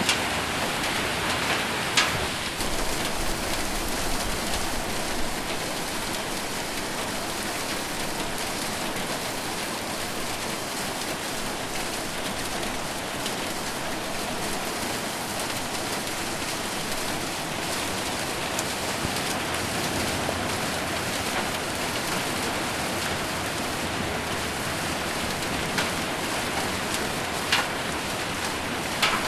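Steady rain falling on a metal roof, with a few sharper, louder single hits about two seconds in and near the end.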